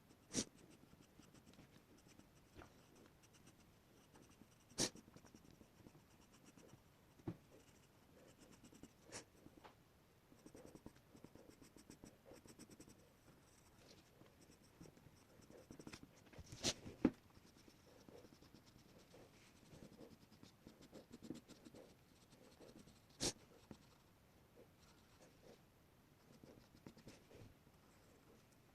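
Faint scratching of sketching on paper, sped up to four times normal speed. About seven sharp knocks are scattered through it, two close together just past the middle.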